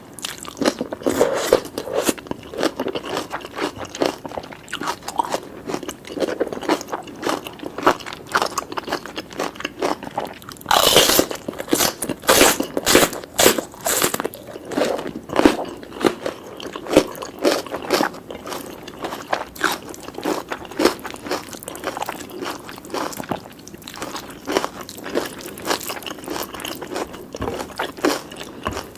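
Close-miked ASMR eating: a person chewing and biting curry, rice and vegetables, with irregular crunchy clicks throughout and a run of louder, sharper crunches about eleven to fourteen seconds in.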